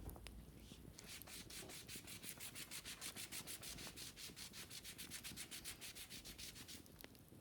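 Rapid, even back-and-forth scratching or scrubbing on a wicker basket, about seven strokes a second. It starts about a second in and stops just before the end.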